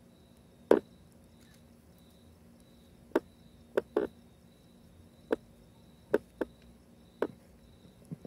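A cricket chirping faintly in short, evenly repeated high pulses, with about eight sharp, irregular pops or knocks over it; the loudest pop comes under a second in.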